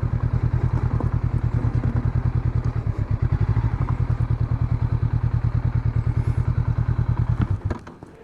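Honda CB500X's parallel-twin engine running steadily with an even pulsing beat, then stopping about seven and a half seconds in.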